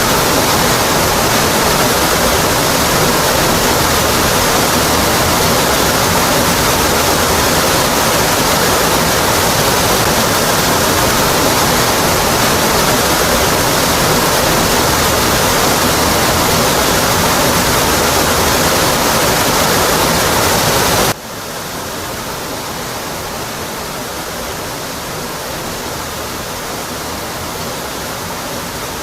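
Waterfall crashing onto rock, a steady full rushing of water. About three-quarters of the way through, the sound drops suddenly to a quieter, slightly duller level and carries on steadily.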